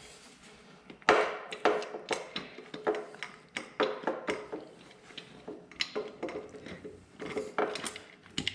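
Metal tools and engine parts being handled: an irregular run of sharp metallic clinks and knocks, some ringing briefly, starting about a second in.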